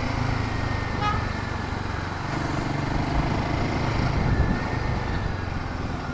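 Royal Enfield Himalayan 450 being ridden in city traffic: steady engine and road noise, with a brief high-pitched tone about a second in.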